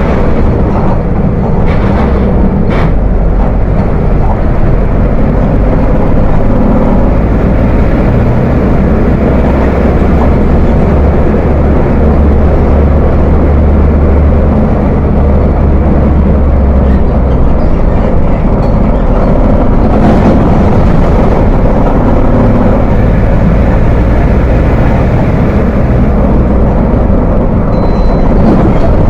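Diesel engine of a Volkswagen 17.230 OD city bus running with a deep, heavy rumble, a steady loud low drone that grows stronger for several seconds in the middle. A few brief clicks are heard near the start and about two-thirds of the way through.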